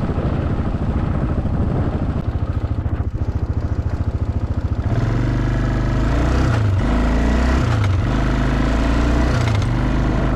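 Quad bike engine running at low revs with an even pulsing beat, then from about halfway pulling steadily at higher revs, with a few brief dips in pitch as the throttle eases and comes back on.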